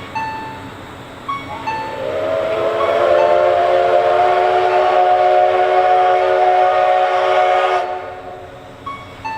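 Steam locomotive whistle blown in one long blast of about six seconds. It rises in pitch as it opens, holds a steady chord-like tone and cuts off sharply. A faint two-note chime repeats in the background before and after it.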